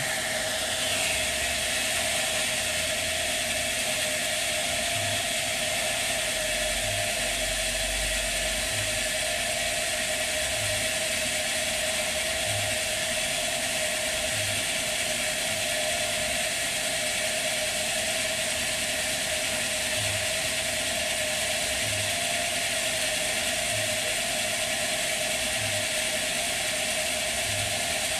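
Sawmill machinery running steadily with a constant whine, and a faint low knock about every two seconds.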